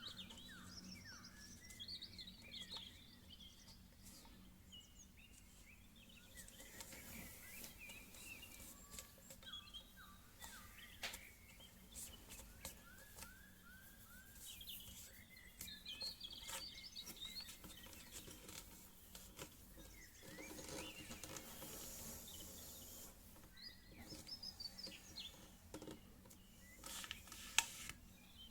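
A sheet of paper being folded and creased by hand into a paper plane: soft rustles and short creasing clicks. Birds chirp faintly in the background.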